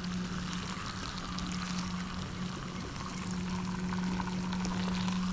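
Pork chops sizzling over the heat: a steady hiss with faint scattered crackles, over a steady low hum.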